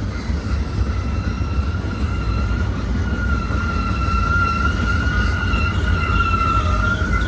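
Freight train cars rolling past with a steady low rumble, and a wheel squealing in a sustained high tone that grows louder about halfway through.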